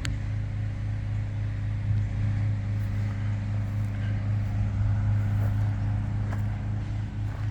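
A motor or small engine running steadily at constant speed, a loud low hum that holds one pitch.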